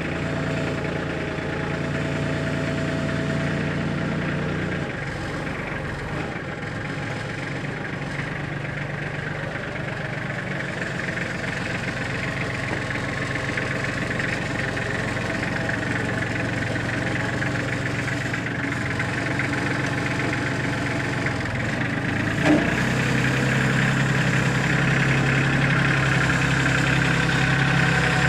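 Gas engine running steadily. Its pitch shifts about five seconds in and again near the end, and there is one sharp knock a little before that second shift.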